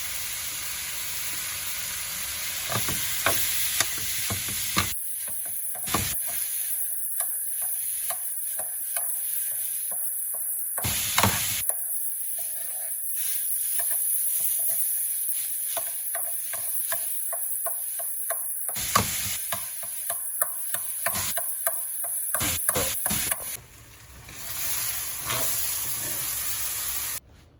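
Food sizzling in a frying pan, with a utensil stirring and scraping through it and knocking against the pan again and again.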